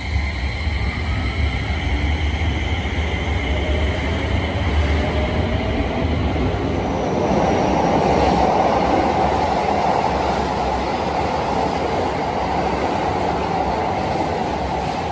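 A Keio 5000-series electric train pulling out of an underground platform, its motor whine rising in pitch over the first second or so and then fading. From about seven seconds in, a second train runs in alongside the platform, with a loud rush of wheel and running noise.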